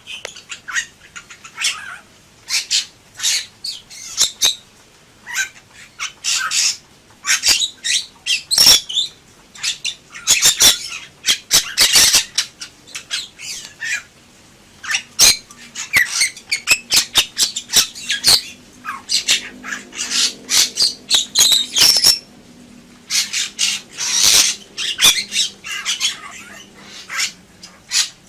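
Bali myna calling and singing in full voice: a long run of short, harsh squawks, whistles and clicking notes in irregular bursts.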